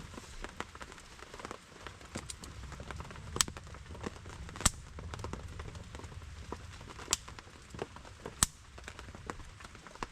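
Campfire wood crackling, with four sharp pops standing out among many small ticks, over the steady patter of rain.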